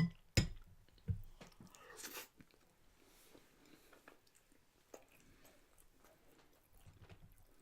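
A person eating by mouth: three sharp smacks in the first second or so, a short rustle about two seconds in, then faint chewing.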